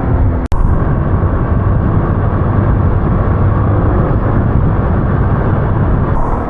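Steady engine and road noise of a motor scooter being ridden, loud and even throughout, with a momentary dropout about half a second in.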